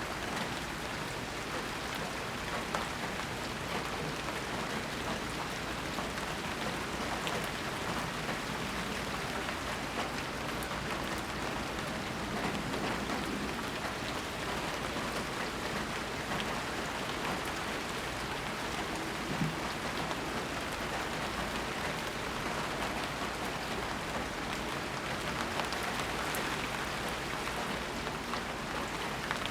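Steady rain falling, with a dense even patter of drops and a few louder single drips here and there.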